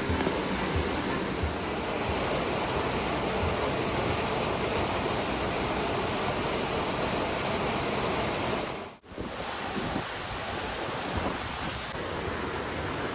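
Steady rush of a waterfall. It drops out for a moment about nine seconds in and comes straight back.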